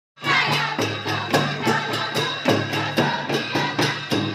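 Holi festival music: a group of voices singing over a steady beat of percussion strikes, about three to four a second, starting just after the opening.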